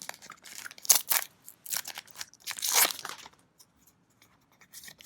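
Trading cards and their foil booster-pack wrapper being handled: a run of short papery swishes and crinkles, the loudest about a second in and just before three seconds, thinning to faint rustles after that.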